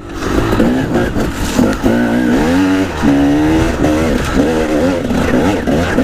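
Dirt bike engine revving up and down while ridden, its pitch repeatedly rising and falling with throttle and gear changes.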